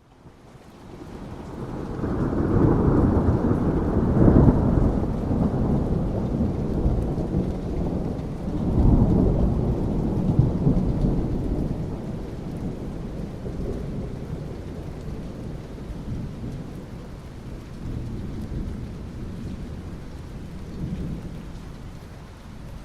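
A long rolling thunder rumble over steady rain: it builds over the first couple of seconds, surges about four seconds in and again around nine seconds, then slowly dies away while the rain keeps falling.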